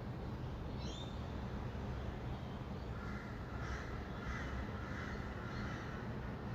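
Birds calling over a low, steady hum of distant city traffic: short high chirps near the start, then a harsh, grating call from about three seconds in that lasts around three seconds.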